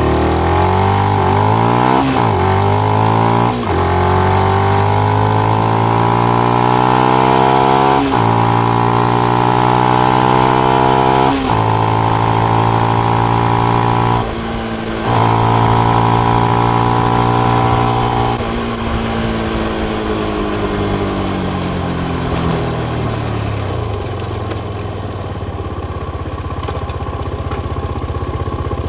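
Benelli BN125 motorcycle engine through its stock exhaust with the dB killer fitted, pulling up through the gears. Engine speed rises and drops sharply at each upshift, about four times in the first twelve seconds. There is a brief lift off the throttle, a stretch of steady running, then engine speed falls steadily as the bike slows down.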